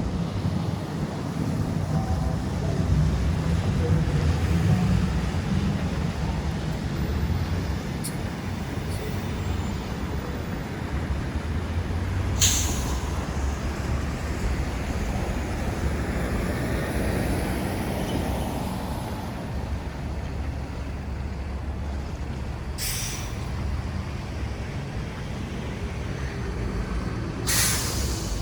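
Street traffic with a heavy vehicle's engine running in a steady low rumble, and three short air-brake hisses, one near the middle and two near the end.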